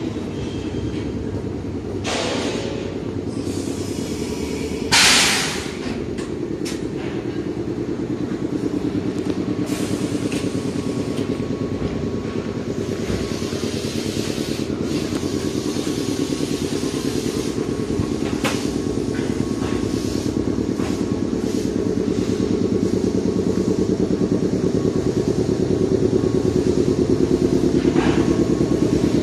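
Steady low mechanical hum from a red Meitetsu electric train standing at the station, growing louder toward the end. A short, loud hiss comes about five seconds in.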